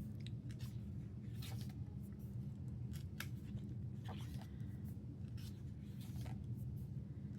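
Pages of a glossy album photobook being turned and handled: a scattering of short, faint papery rustles and crinkles over a steady low hum.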